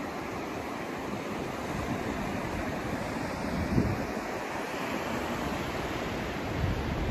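Continuous rushing noise of a sleep 'white noise' track, heavier in the low end and swelling unevenly, most around four seconds in and again near the end.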